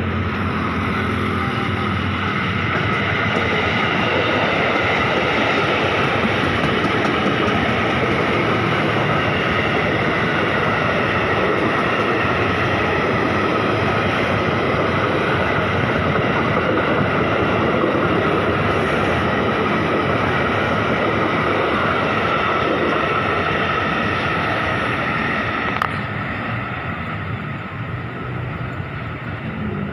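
KRL electric commuter train running past close by: a steady, loud rumble and rattle of wheels on rail with a faint ringing hum, easing off a little about four seconds before the end after a sharp click.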